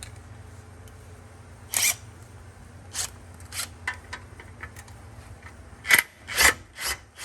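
Hand tools clicking and scraping against metal parts of the front end as a part is worked loose: about six short, sharp clicks, the loudest near the end, over a steady low hum.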